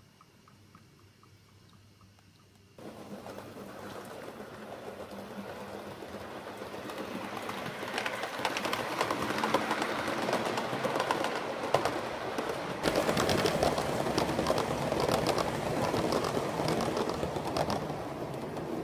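A train running on rails, starting suddenly about three seconds in and growing steadily louder as it approaches, with rapid fine clicking from the wheels over the track.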